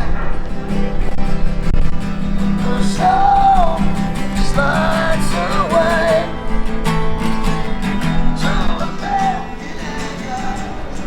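A street musician singing with an acoustic guitar: short sung phrases with gaps between them, over steady strummed chords.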